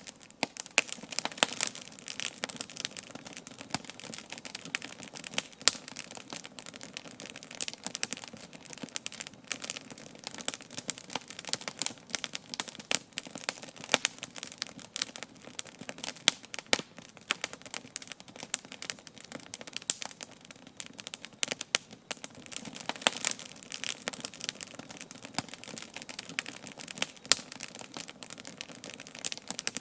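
Wood fire burning steadily, crackling and popping with many sharp irregular snaps.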